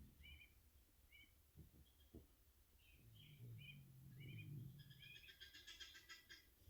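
Faint bird chirping: short, high chirps repeated every second or so, often in pairs, with a quicker flurry of chirps near the end, over a faint low background rumble.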